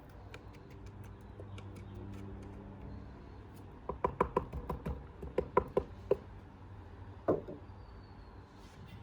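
A quick run of about a dozen sharp taps and knocks over two seconds, then a single one a second later, from hard materials being handled.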